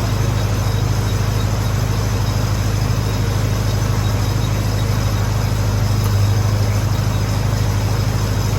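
Lincoln SA-200 engine-driven welder's gasoline engine running steadily.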